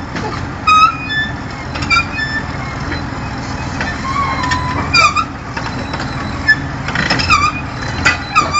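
Heavy truck engine running with a steady low rumble, while short high-pitched squeaks come and go about once a second.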